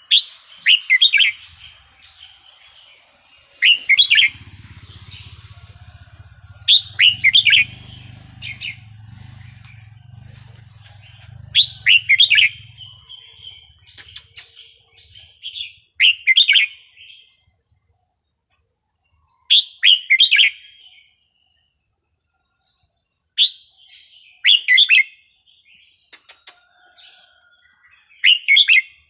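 Red-whiskered bulbul singing: short, loud whistled phrases repeated every few seconds, with pauses between.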